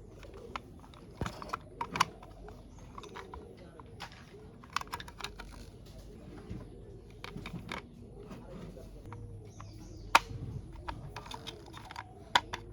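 Irregular clicks and taps of small hard plastic toy-vehicle parts being handled and fitted together, some sharper snaps among them, loudest about two seconds in, about ten seconds in and near the end.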